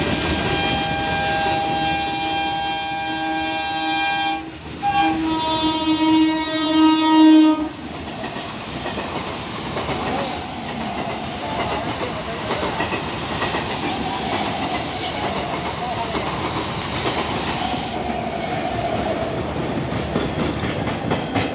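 A train horn sounds for about four seconds, breaks off briefly and sounds again louder for about three seconds. After that comes the steady rumble and clickety-clack of wheels over rail joints as a freight train of open wagons and a suburban EMU local pass on neighbouring tracks.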